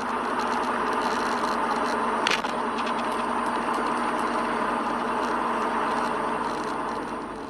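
Steady road and engine noise of a moving car, with a single sharp click about two seconds in.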